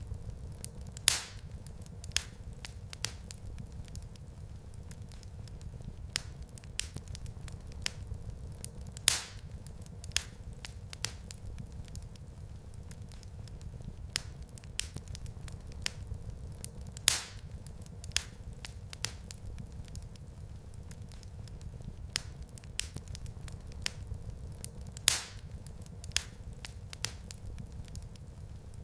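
Wood fire in a fireplace crackling, with sharp pops and small clicks over a steady low rumble. A louder pop comes about every eight seconds.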